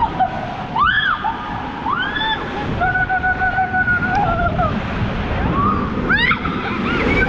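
Steady rush of moving water, with several high voices yelling and screaming over it in rising-and-falling calls, one of them held for a couple of seconds.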